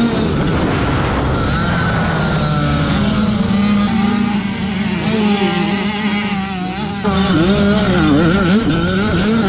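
Several 85cc two-stroke motocross bikes running on the track, their engine pitch repeatedly rising and falling as riders rev, shift and back off through the course.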